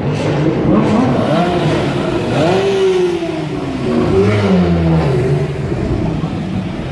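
Supercar engine revved in a series of short blips, then one longer rev that rises and falls away, over street traffic.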